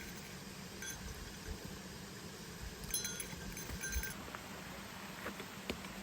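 Light metallic clinks: a short ringing tap about a second in, then a cluster of clinks around three to four seconds in, over a steady background hiss, with a few faint sharp ticks near the end.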